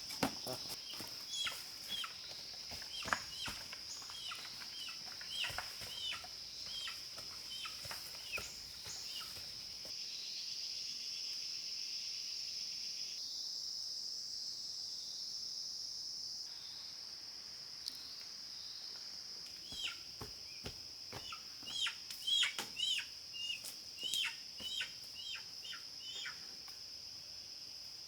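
Forest ambience: a steady, high-pitched insect drone, with runs of short, sharp chirps and clicks in the first ten seconds or so and again about twenty seconds in.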